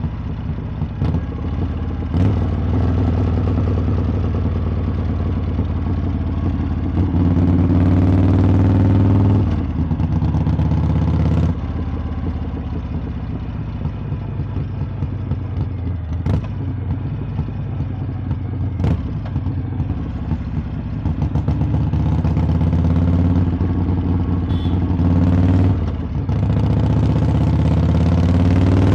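Harley-Davidson V-twin motorcycle exhaust on the move, the throttle opened and closed. The engine pitch climbs about seven seconds in, drops sharply as if shifting up, climbs again, settles into a steadier cruise, then rises once more near the end. A few short clicks are heard along the way.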